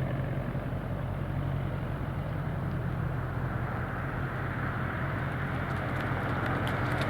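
Cessna 172RG Cutlass's single piston engine and propeller running steadily at low power, an even low hum as the plane taxis.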